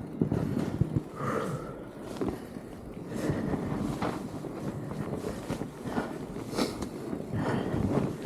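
Fat bike being ridden over a snowy trail: steady tyre and wind noise on the microphone, with irregular knocks and rattles from the bike.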